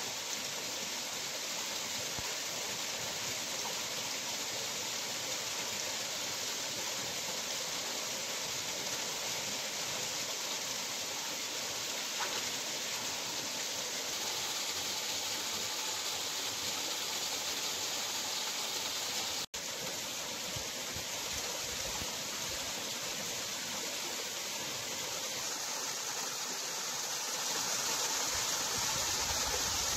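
Waterfall flowing among rocks: a steady rush of falling water, with a momentary break about two-thirds of the way through and a little louder near the end.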